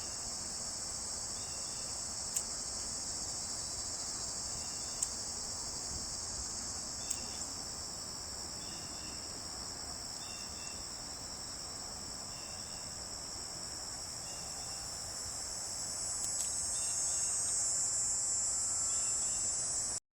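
A steady, high-pitched drone of a chorus of insects such as crickets, growing louder near the end. It has a faint repeated chirp about once a second and a few sharp clicks in the first half.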